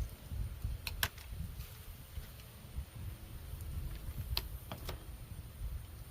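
A few sharp clicks and clinks of tools and metal parts being handled while a refrigerator is stripped for scrap, over a low rumble of wind on the microphone.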